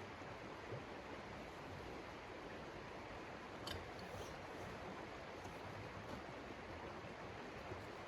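Steady rushing of blizzard wind, with a few faint clicks, the clearest about halfway through.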